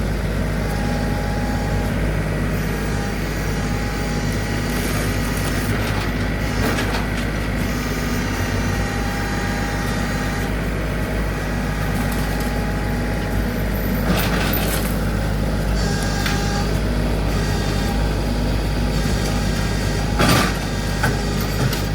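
An engine running steadily at a constant speed, with a few sharp knocks, two close together near the end.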